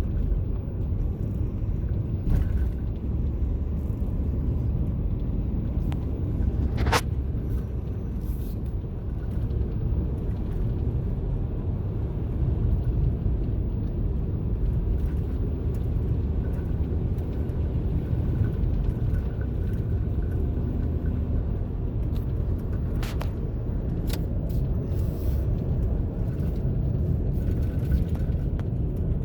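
Vehicle engine and road noise heard from inside the cabin: a steady low rumble, with a couple of faint sharp clicks.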